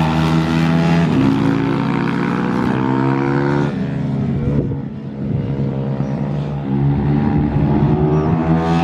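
Pit bike's single-cylinder four-stroke engine running hard, its pitch dropping as the throttle is rolled off about a second in and again around four to five seconds in, then climbing back as it accelerates.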